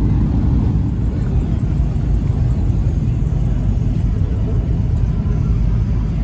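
A car engine running steadily, a low, even rumble with no revving.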